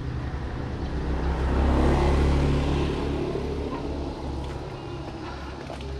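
A motor vehicle's engine passing close by, swelling to its loudest about two seconds in and then fading away.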